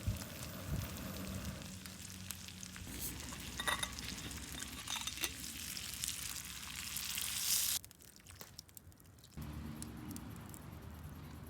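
Food sizzling in a frying pan: a steady hiss with small pops. It cuts off abruptly about eight seconds in, leaving a quieter stretch.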